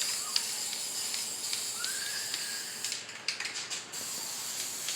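Spray paint hissing from the nozzle in a steady spray over rusted sheet metal, breaking into short spurts about three seconds in before running steadily again.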